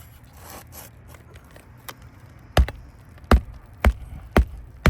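Magnetic roofing hammer driving a nail through a shingle: a run of about five sharp blows, roughly half a second apart, beginning a little past halfway in.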